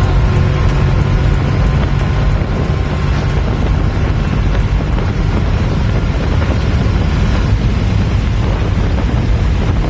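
Loud, steady low rumble of a car on the move, with engine drone, road noise and wind on the microphone.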